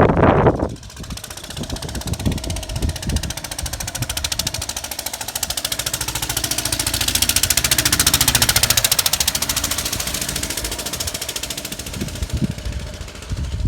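Lister stationary engine running with a steady, even beat. There is a short loud burst of noise right at the start, and the sound swells in the middle and fades back down near the end.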